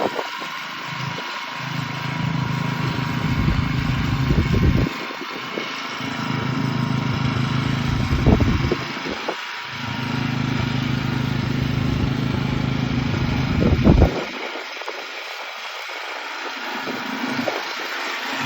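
Petrol lawn mower engine running as it cuts grass, its low note dipping away and coming back several times, with the longest drop about three-quarters of the way through.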